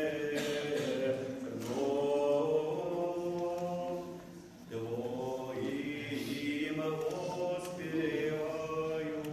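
A small group of voices singing an Orthodox church chant on long held notes, with a short break for breath about four seconds in.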